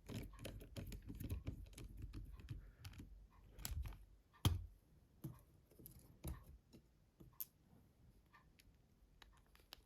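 Small plastic clicks and handling noises from the housing parts of a Nokia C2-06 phone being fitted together by hand. Dense fiddling at first, then a few separate, sharper clicks spaced a second or so apart.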